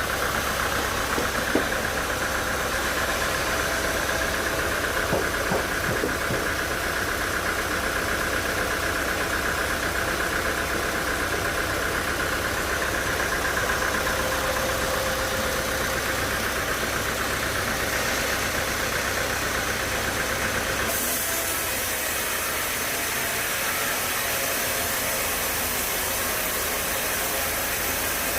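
Sawmill machinery running steadily, with a low rumble and a constant whine; about three quarters of the way through, the rumble drops away and a brighter hiss takes over.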